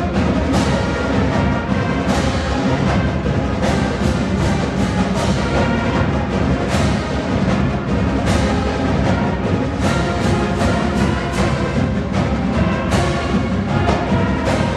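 High school marching band playing: brass and woodwinds over a steady drum beat.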